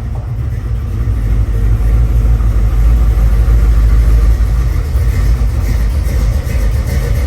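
Vehicle engine running loud and deep, a heavy low rumble that grows a little louder over the first few seconds.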